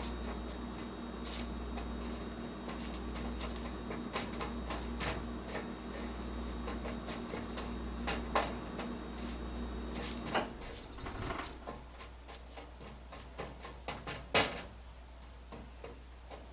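Irregular small clicks and crackles of crisp chocolate-coated chow mein noodles being pressed and shaped into nests on wax paper, with one louder click near the end. A steady hum runs underneath and cuts off about ten seconds in.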